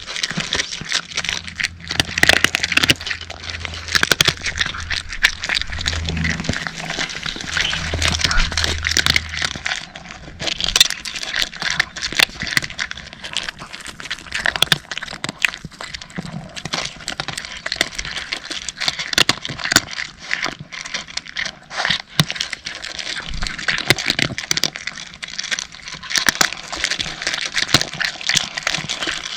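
Cats crunching dry kibble: a dense, irregular run of small crisp crunches and clicks.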